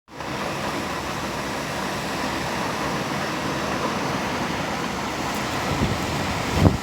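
Strong wind blowing hard, a steady rushing noise, with two low thumps near the end, the louder one just before it ends, as gusts hit the microphone.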